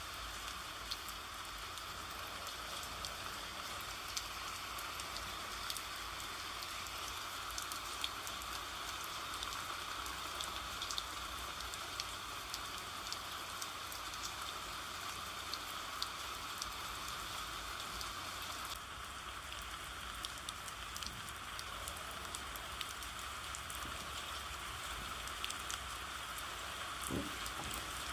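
Steady rain falling, a constant hiss with scattered droplet ticks.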